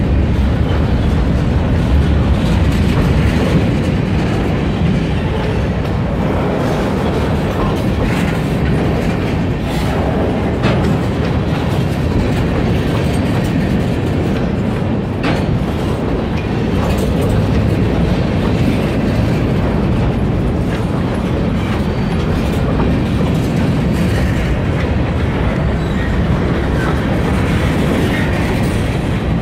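Freight train's covered hopper cars and boxcars rolling past close by: a steady rumble of steel wheels on the rails, with a few faint clicks along the way.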